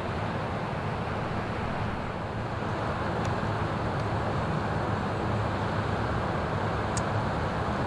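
An inland ship's diesel engine running steadily as it passes, a low hum and rumble. A brief high-pitched chirp sounds about seven seconds in.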